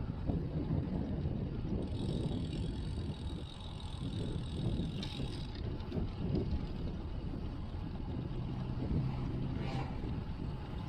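Wind buffeting and road noise picked up by a chest-mounted action camera on a moving road bike, a steady low rumble. A faint high whine joins for a few seconds in the first half.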